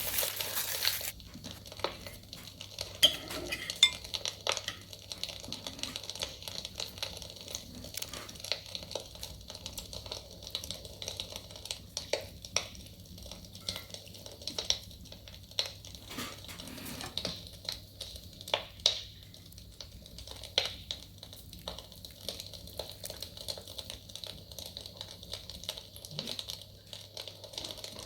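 Cutlery and dishes clinking and clattering in scattered, irregular knocks, with a brief hiss in the first second.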